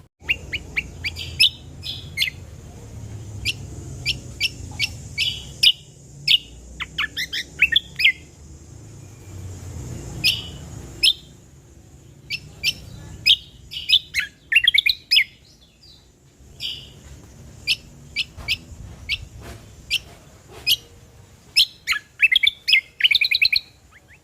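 A cucak kombo songbird singing: a string of sharp, high chirps broken by quick warbling runs, three times over.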